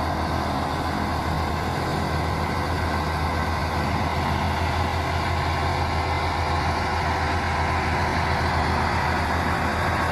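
Heavy truck's diesel engine running steadily, a low even drone with no change in pitch.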